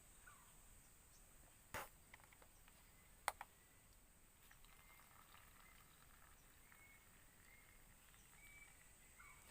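Near silence: faint outdoor ambience with a steady high-pitched insect drone, two sharp clicks in the first few seconds, and faint short chirps in the second half.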